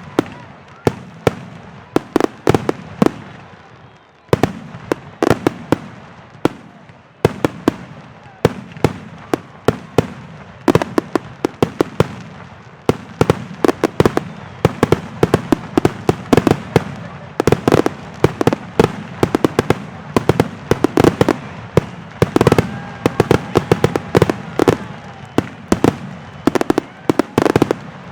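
Aerial fireworks shells bursting in quick succession, sharp bangs several a second with echoing rumble between them, coming thicker from about halfway through.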